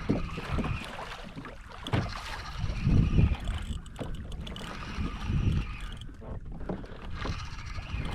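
Water sloshing and slapping against a kayak's hull in irregular swells, with wind rumbling on the microphone and a few faint knocks.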